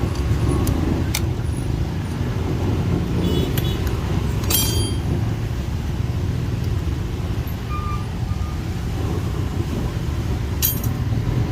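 Steady low rumble of a vehicle engine or traffic in the background, with a few sharp metal clinks of tools, the loudest about four and a half seconds in and again near the end.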